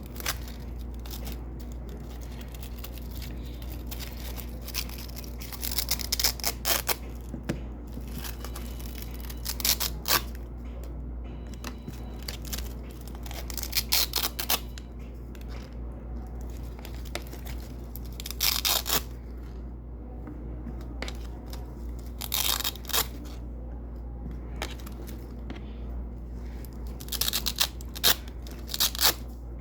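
Double-sided hook-and-loop (Velcro) tape being pulled off white hook strips: a short crackly rip about every four seconds, six times in all, over a steady low hum.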